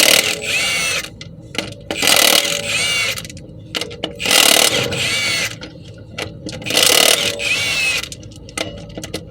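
Impact wrench spinning off the wheel's lug bolts, run in four separate bursts of about a second each, one bolt after another.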